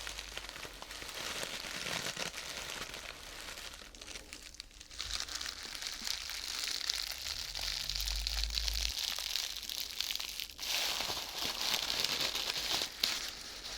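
Close-up crinkling and crumpling of a thin sheet of vinyl or paper handled for ASMR, a dense crackle with short lulls about four seconds in and again about ten and a half seconds in.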